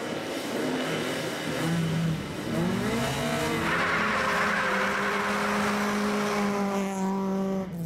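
Nissan Almera N15 GTI's 2.0-litre four-cylinder engine revving at the start line, its pitch wavering, then rising about three seconds in and held at steady high revs for about four seconds. A rush of tyre noise comes just after the rise.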